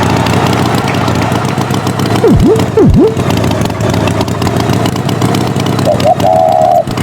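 An engine running steadily. About two and a half seconds in come two quick swoops that dive down in pitch and snap back up. A warbling tone starts near the end.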